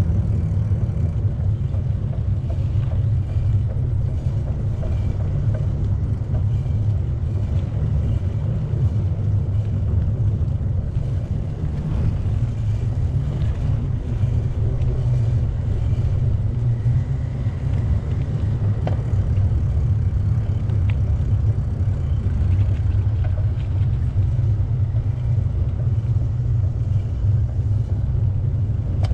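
Steady low rumble of wind buffeting the microphone on a moving bicycle, mixed with tyre noise on the path.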